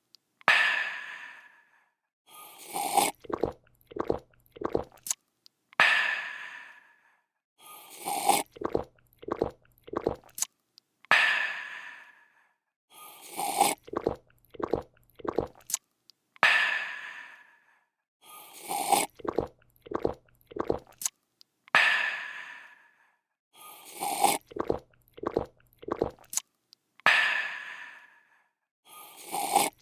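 Looped drinking sound effect: a quick run of gulps followed by a long breathy 'aah' of refreshment that fades away. The cycle repeats about every five seconds, six times over.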